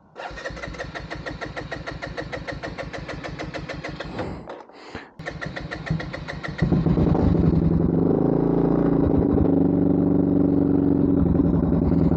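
Benelli TNT 125 single-cylinder engine with a new aftermarket exhaust turning over on the electric starter with a rapid, even chatter. After a short break it catches about six and a half seconds in and settles into a steady idle, really loud through the new exhaust.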